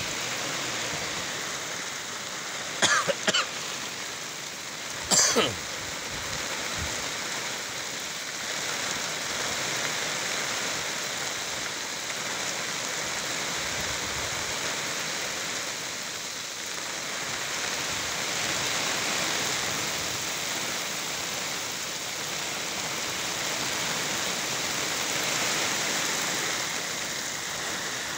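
Heavy rain falling steadily, an even hiss throughout. Two short loud bursts stand out, about three and five seconds in.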